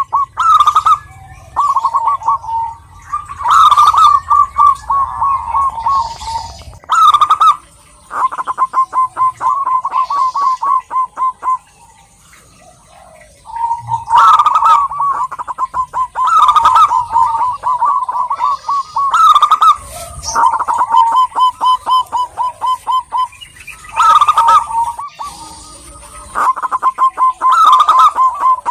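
Zebra doves (perkutut) cooing: repeated phrases of rapid, stuttering pulsed notes, each opening on a louder note, one phrase following close on another. There is a break of about two seconds around twelve seconds in.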